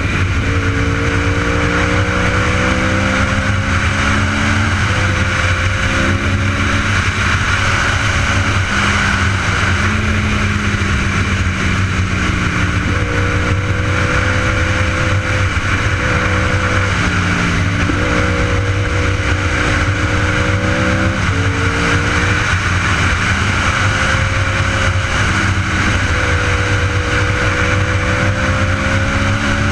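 Superbike engine pulling under way, its pitch slowly rising and then dropping back abruptly again and again, as at gear changes, under heavy steady wind noise.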